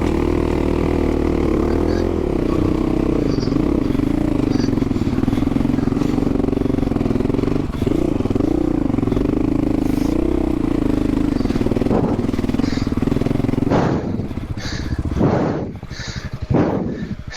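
Dual-sport motorcycle engine running steadily under way on a dirt trail, its note wavering slightly with the throttle. About fourteen seconds in the steady note breaks off and gives way to a lower, uneven sound.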